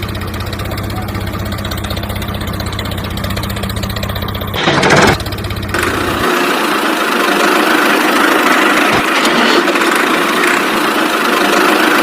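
Mini tractor's engine or motor running steadily, with a louder surge about five seconds in. About six seconds in, the running sound changes to a higher, thinner note with less low rumble.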